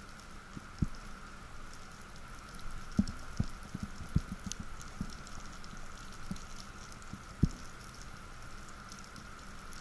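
Underwater ambience over a rocky reef, heard through a diving camera: a steady hiss with fine crackling ticks and scattered short low knocks, the strongest about three seconds in and about seven and a half seconds in.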